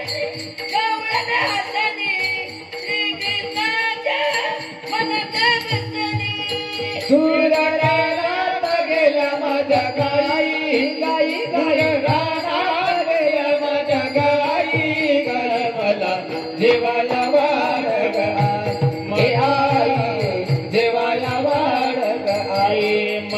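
Marathi gavlan bhajan music: a wavering melody over a steady held drone, with a regular drum beat underneath.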